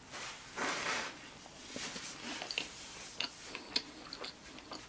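A bite into a Subway pork rib sandwich, then close-up chewing with many small, soft wet mouth clicks.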